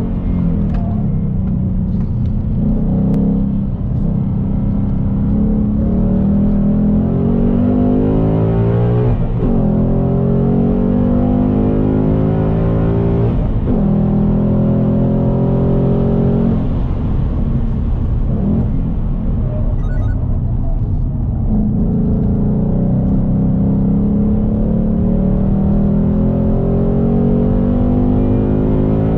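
2020 Ford Mustang GT's 5.0-litre V8 heard from inside the cabin under hard acceleration on track. Its pitch climbs and breaks several times at the gear changes, then runs fairly steady at high speed.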